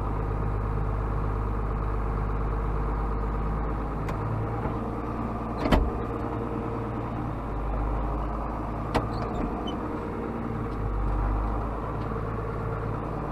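Tractor diesel engine idling steadily, with two sharp metallic knocks, one about six seconds in and another about three seconds later.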